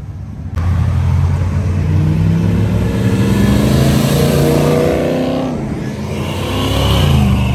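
First-generation Dodge Challenger muscle car accelerating past, its engine note rising, dipping briefly about five and a half seconds in, then rising again.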